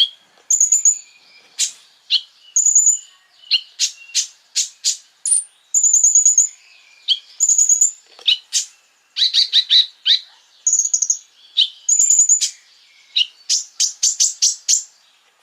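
Konin, a small songbird, singing a fast, high series of sharp chips and short trills, with quick runs of repeated notes about two-thirds of the way in and near the end.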